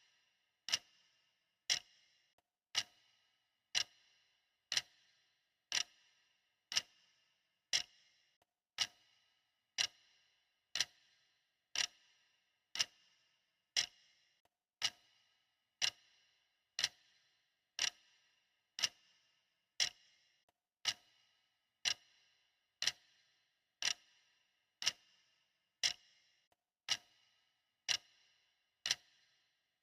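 Clock ticking steadily, about one tick a second, each tick a short sharp click with a brief ring.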